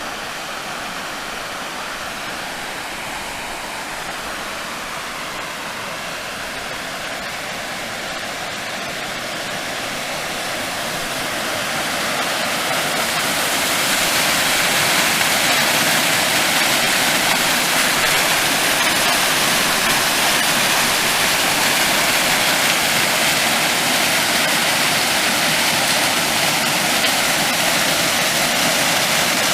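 A small waterfall: water pours and splashes in a steady, full rush. About halfway through it grows louder over a few seconds, then holds level.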